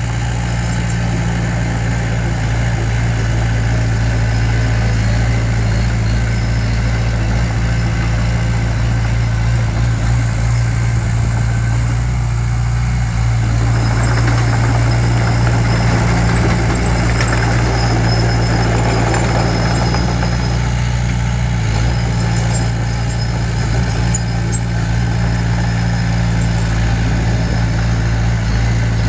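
Heavy diesel engine of construction machinery running steadily with a deep, even hum, working a little harder for several seconds in the middle.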